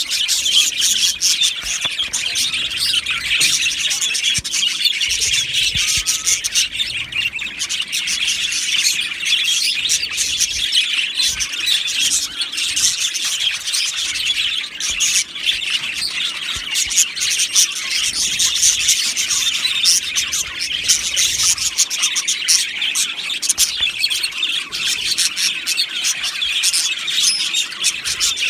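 A flock of budgerigars chattering and chirping without pause, many birds' warbles and short chirps overlapping into a dense, steady chatter.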